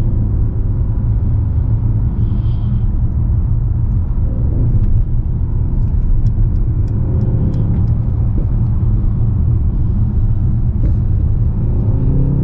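Mercedes-AMG S 63's 4.0-litre twin-turbo V8 and exhaust under way: a steady low rumble, with the engine note rising briefly near the end.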